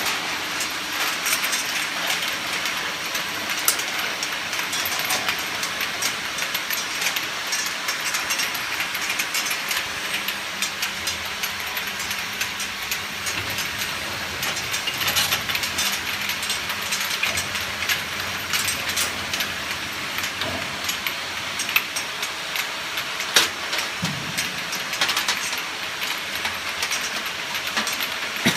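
Glass vial washing machine running: a steady hiss with a constant patter of small clicks and knocks, and now and then a sharper knock.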